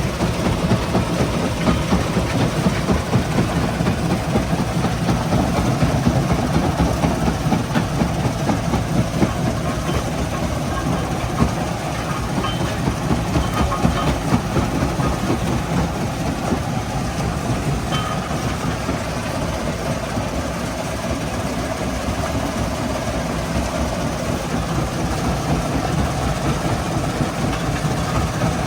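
Stone crushing plant running, with heavy machinery and a dense, continuous clatter of rock that does not let up.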